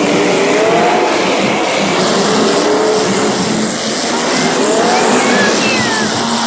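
Several race car engines running together on track, their pitches rising and falling as they rev through the laps. A faint high squeal, likely tyres, comes in briefly after the middle.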